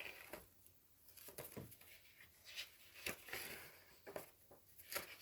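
Faint rustling and a few light ticks from papers being handled and leafed through, at a low level.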